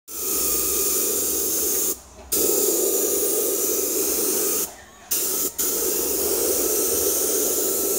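Compressed-air paint spray gun spraying a steady hiss, cut off briefly three times as the trigger is let go, about two seconds in and twice around five seconds in.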